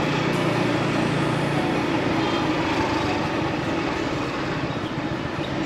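Riding a motorbike through city traffic: a steady rush of engine, road and wind noise, with a low engine hum that stops about a second and a half in.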